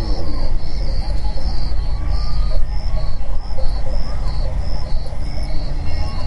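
Insects chirping in a steady, even rhythm, a high pulsed trill repeating a little under twice a second, over a loud steady low rumble.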